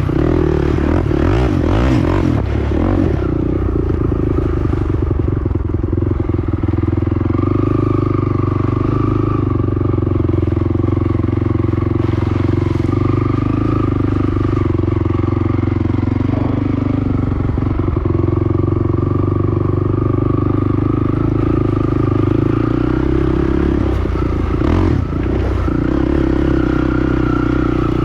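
Honda TRX450 ATV's single-cylinder four-stroke engine running steadily while under way, with rattling knocks from the machine jolting over rough ground in the first few seconds and again near the end.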